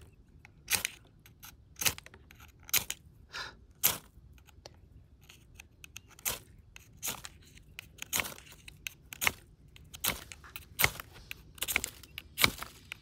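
A fire steel being struck again and again with its scraper to throw sparks onto tinder: sharp scraping strikes, about one a second. The tinder is too damp to catch.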